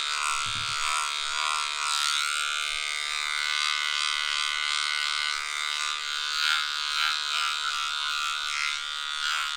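Small electric pet grooming clippers buzzing steadily as they shave a dog's belly fur.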